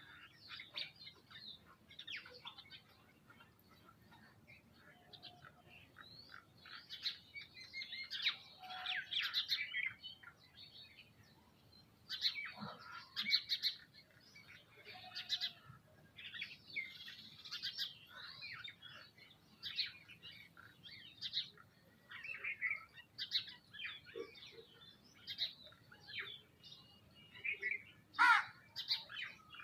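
Several birds chirping and calling in short, overlapping calls, busier in a few spells.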